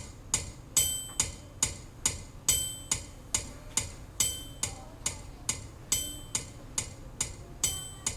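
Clock-like tick-tock sound effect: even ticks about two and a half a second, every fourth one louder and ringing.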